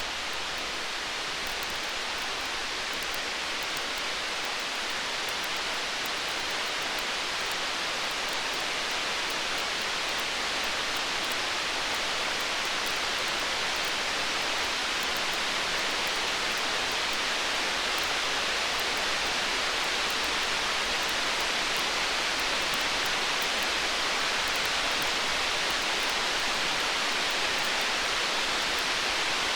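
A steady, even rushing hiss like heavy rain, with faint tiny crackling ticks running through it, from a storm-and-campfire sleep ambience. No thunder rumble stands out.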